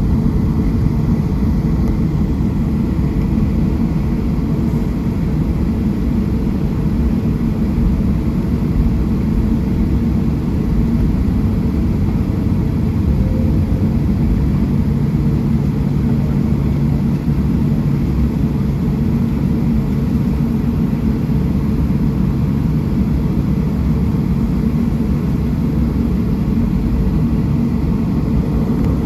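Steady low rumble of a Boeing 737-700's CFM56 jet engines and the airflow, heard inside the passenger cabin. A faint low hum settles in about halfway through.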